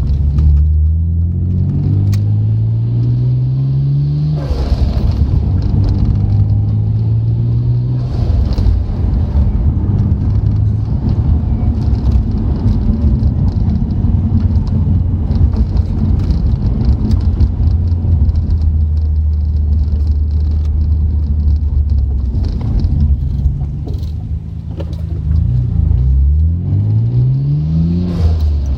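Nissan Skyline GT-R's twin-turbo straight-six engine pulling hard with a gear change about four seconds in, then cruising at steady revs. Near the end the revs drop briefly before it accelerates again, with another shift just before the end.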